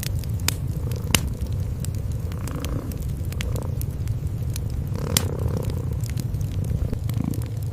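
Cats purring, a steady low rumble, with a wood fire crackling over it in scattered sharp pops, two of them louder, about a second in and about five seconds in.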